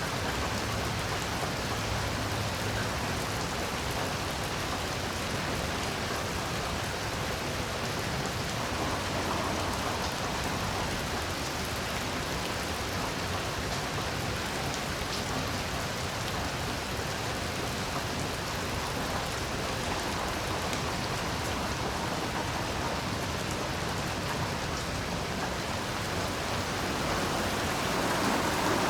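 Heavy rain falling steadily, a dense even hiss of drops with no breaks, swelling slightly near the end.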